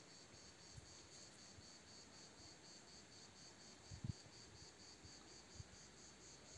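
Crickets chirping faintly in a steady, even rhythm of about four high chirps a second, with a few soft low thumps, the loudest about four seconds in.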